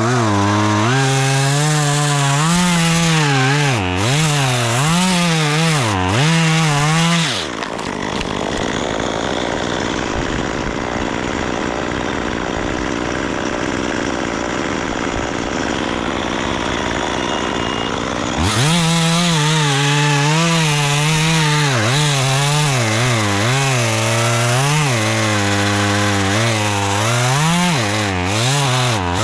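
Two-stroke chainsaw running and cutting, its engine pitch repeatedly rising and falling under the throttle. For about ten seconds in the middle the engine note gives way to a steady rushing noise, then the saw's note returns.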